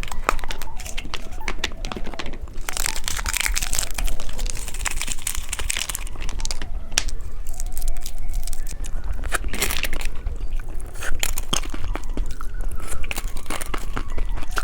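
Plastic candy packaging crinkling and tearing open in close-up, with many sharp crackles and clicks.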